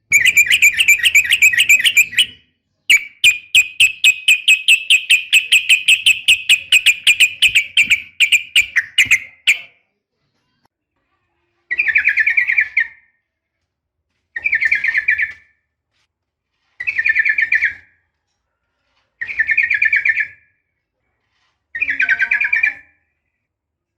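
Yellow-vented bulbul (trucukan) calling: a fast chattering run of rapidly repeated notes for the first ten seconds, then five short bursts of notes about every two and a half seconds. It is offered as a female's call to a male.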